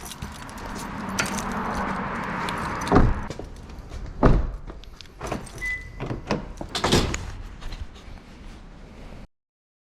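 A rushing noise for the first few seconds, then a series of sharp knocks and clatters with a brief beep near the middle. The sound cuts off abruptly shortly before the end.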